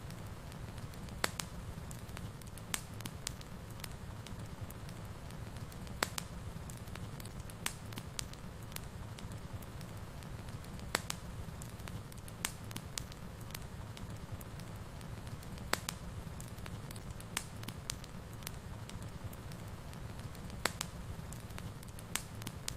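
Wood fire burning in a fireplace: a steady low rush of flames with irregular sharp crackles and pops, a few louder snaps every second or two.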